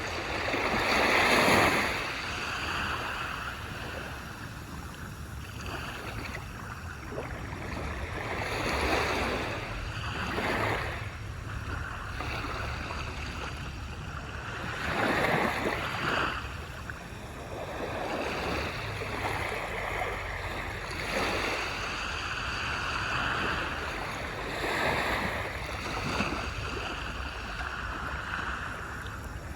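Waves breaking and washing up on a beach, each swell rising and falling every few seconds over a steady surf hiss, with the largest breaking about a second in and again about fifteen seconds in.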